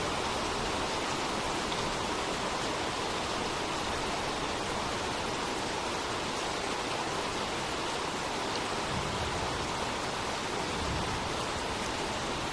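Steady rain falling, an even hiss with no separate drops or breaks.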